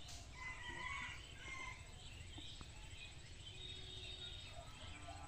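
Faint bird calls: scattered short chirps and a few briefly held notes over a low, steady background noise.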